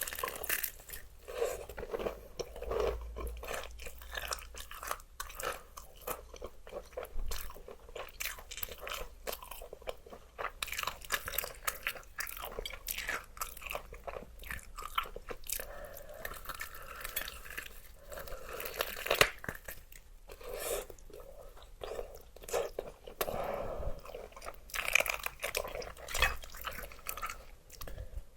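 Close-miked eating of crispy fried chicken: crunchy bites of the fried coating and chewing, an irregular run of crisp crackles with a few louder crunches.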